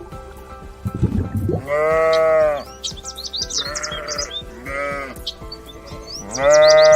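A farm animal bleating: two long, loud calls with two shorter ones between them, over background music, with high chirps above.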